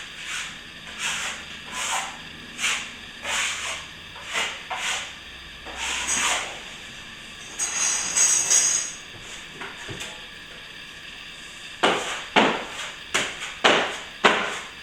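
Plaster being mixed by hand in a bucket: rhythmic scraping strokes, about one or two a second, then a brief hiss and a run of sharp knocks of the tool against the bucket near the end.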